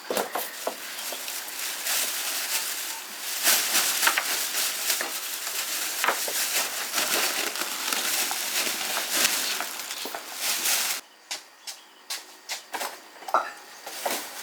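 Dense crackling and rustling with many small clicks, which stops abruptly about eleven seconds in; a few scattered clicks follow.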